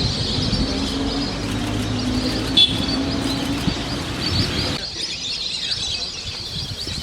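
A flock of lesser whistling ducks calling, many high whistles overlapping. A low steady hum runs under them and stops about five seconds in, and there is one sharp click about two and a half seconds in.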